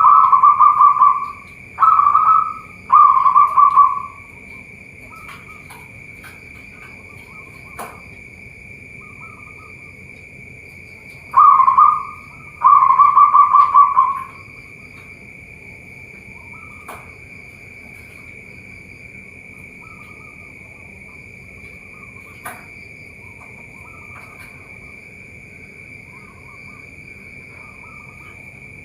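Zebra doves (perkutut) cooing in rolling, pulsed coo phrases, in two bouts: a few phrases in the first four seconds, then two more about eleven seconds in. A steady high-pitched whine runs underneath throughout.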